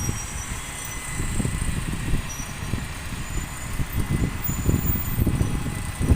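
Gusty wind buffeting the microphone in a rough, uneven low rumble, over the sound of a bus running past.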